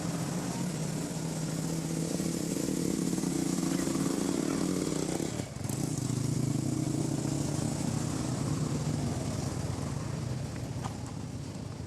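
A small engine running steadily nearby, its sound dipping briefly about five and a half seconds in, then picking up again.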